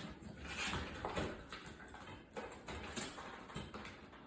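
Faint irregular rustling with a few light knocks and clicks: hands handling the fan's wiring and parts.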